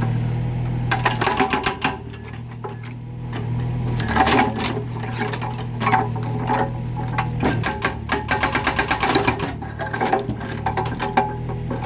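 Mini excavator's hydraulic breaker hammer pounding concrete in several bursts of rapid, evenly spaced blows, over the excavator's engine running steadily.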